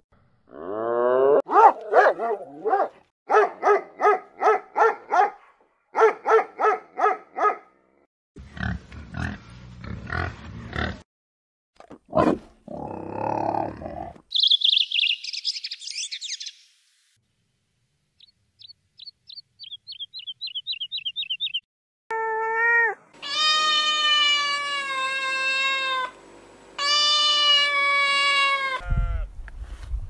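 A string of different animal calls cut one after another: a rising call, several series of quick repeated calls, a rough low sound, a high harsh call, a fast run of high chirps, and then long pitched calls that waver, with short silences between the clips.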